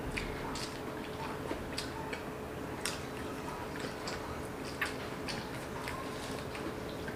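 Close-up eating sounds of people chewing misal pav and soft pav bread by hand: irregular wet smacks and clicks of lips and mouths, with no steady rhythm.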